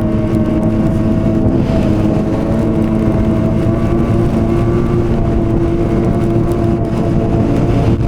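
Ski-Doo Renegade XRS 850 snowmobile's two-stroke twin engine running at a steady cruising speed, its pitch holding nearly constant.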